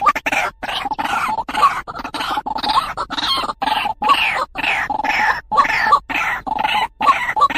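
White-breasted waterhen calling: a rapid, unbroken series of short repeated notes, about two to three a second.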